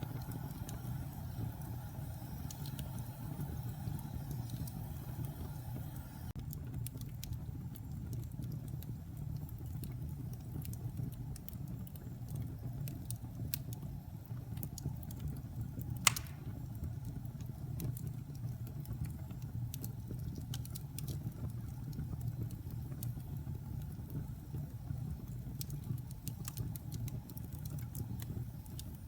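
Wood fire burning in a fireplace: a steady low rumble with scattered small crackles and one sharper pop about sixteen seconds in.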